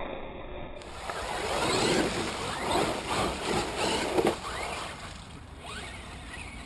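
Electric HPI Savage RC truck driving through water, with splashing and sloshing and a motor whine that rises several times. It is loudest a little past the middle, then quieter.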